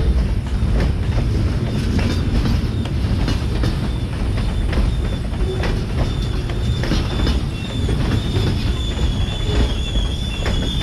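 Freight train rolling along with a low rumble and scattered clicks of wheels over the rail. A high, steady wheel squeal sets in about halfway and grows louder toward the end.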